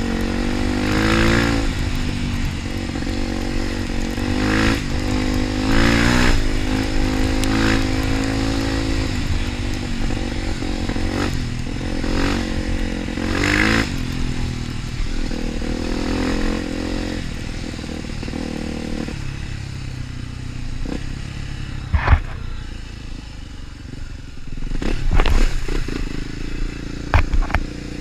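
Trail motorcycle engine revving up and shifting through the gears again and again, each rise in pitch cut off and started over. In the last third it runs quieter, with a few sharp knocks and some clatter.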